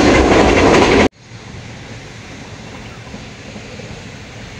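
Green Line Express passenger train running, heard from inside the coach: a loud, noisy rumble and rattle that cuts off abruptly about a second in. A much quieter, steady rumble follows.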